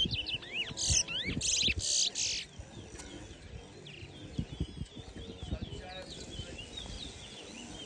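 Towa-towa finches singing in a song race: a loud run of rapid chirping song phrases in the first two and a half seconds, then fainter chirps and trills for the rest.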